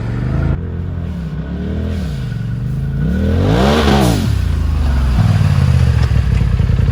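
Turbo side-by-side's engine revving up and down several times, with a high peak about four seconds in, then running at a steady, higher pitch.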